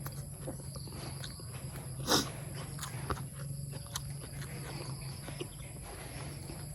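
Close-up chewing and wet mouth sounds of someone eating, with scattered small clicks and one sharper click about two seconds in, over a steady low hum.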